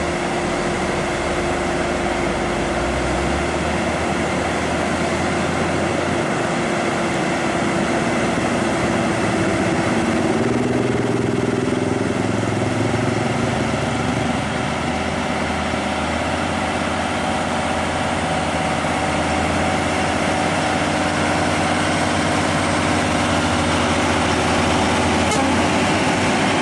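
Heavy truck's diesel engine pulling at a crawl, running loud and steady, its pitch shifting about ten seconds in.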